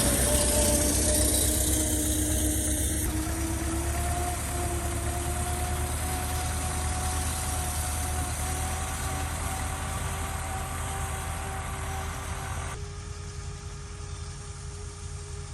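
Engine running with a steady hum that rises slightly in pitch as it grows gradually fainter. The sound changes abruptly about three seconds in and again near the end.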